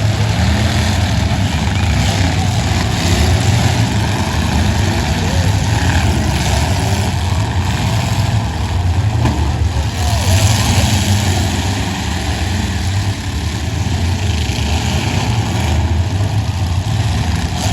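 Demolition derby car engines running together, loud and steady.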